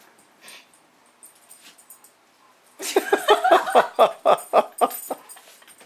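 A dog giving a quick run of high-pitched yips and whines during rough play, starting about three seconds in and lasting about two seconds.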